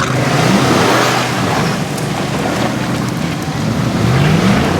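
Mud truck engine running, with two brief revs that rise in pitch: one about half a second in and another near the end.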